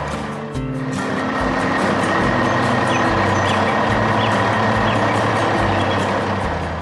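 Truck engine running steadily under load as the truck drives along, an animation sound effect.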